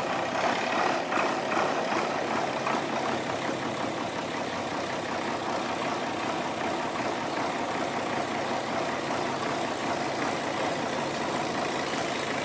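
Diesel farm tractor engine running steadily, a little louder in the first few seconds.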